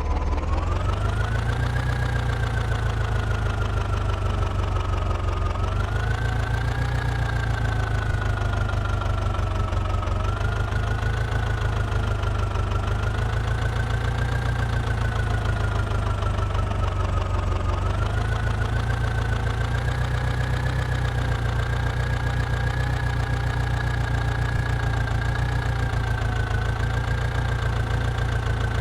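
John Deere tractor's diesel engine running under load, revving up just after the start and then rising and falling in pitch every few seconds, with a high whine over the engine note.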